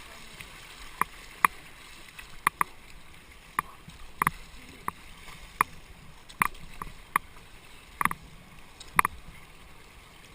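Kayak paddles knocking against the boat about a dozen times at an irregular pace, some knocks in quick pairs, over a steady rush of river water.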